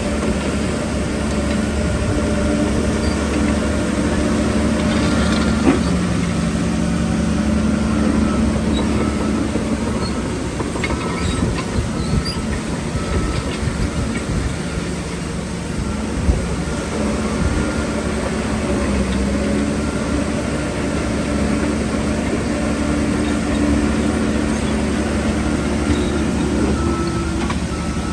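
Heavy diesel engine of a Shantui bulldozer running steadily under load, its pitch dipping and rising a few times as it works, with the clatter of its steel tracks and two sharp metallic knocks.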